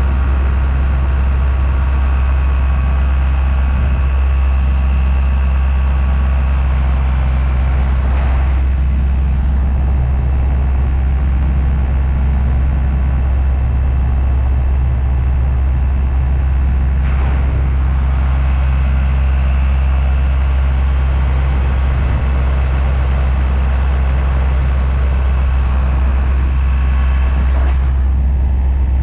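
Paramotor engine and propeller running steadily: a loud, constant drone whose tone shifts slightly three times.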